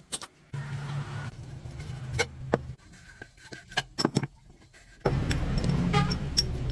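A series of sharp clicks and knocks, as of hand work on a machine, over stretches of low hum that start and stop abruptly; the hum is louder from about five seconds in.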